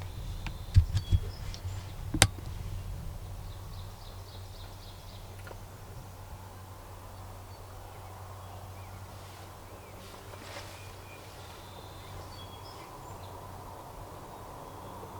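Outdoor field ambience with faint songbird chirps and a low steady hum, broken by a few sharp knocks in the first couple of seconds, the last and loudest about two seconds in.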